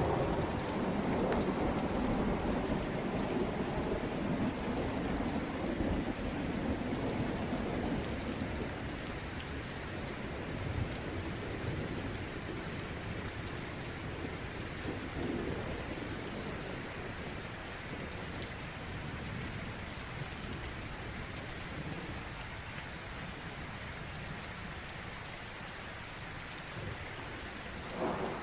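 Steady rain falling, with a low rolling thunder rumble that dies away over the first several seconds.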